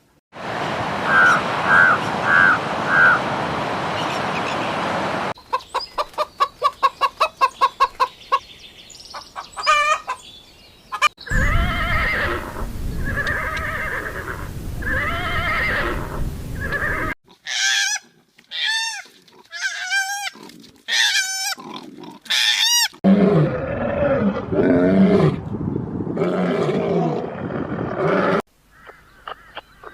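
A string of short animal-call recordings cut one after another, each with its own background. It starts with four short calls over a noisy background, then a fast run of repeated calls, then a few evenly spaced calls, then high, quickly sweeping chirps, and then lower, rougher calls.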